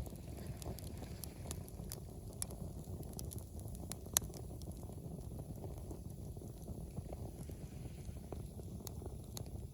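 Wood fire crackling, with scattered sharp pops, one louder about four seconds in, over a low steady rumble.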